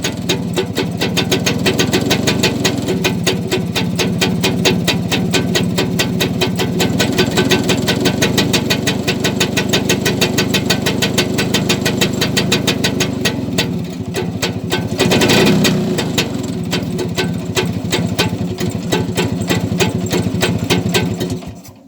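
Vespa scooter engine running through an exhaust with a tin can fitted into the muffler outlet, giving a rapid, very crisp popping exhaust note. It is blipped louder briefly about two thirds of the way in and is switched off just before the end.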